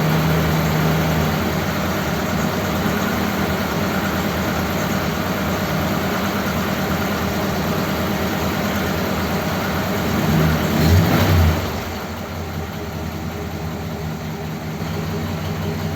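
1957 Ford Thunderbird's Y-block V8 idling steadily, running with the repaired heater circuit connected. About ten seconds in there is a brief louder surge, after which it idles a little quieter.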